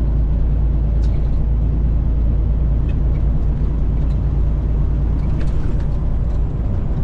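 Inside the cab of a Freightliner FLD120, the truck's Caterpillar 3406E inline-six diesel runs at a steady cruise, a constant low drone with road noise. A few faint ticks sound over it.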